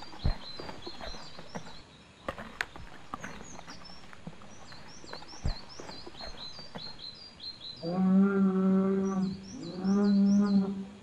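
Cattle mooing twice near the end, two long steady calls back to back. Small birds chirp over and over in the background, with a few light clicks and knocks.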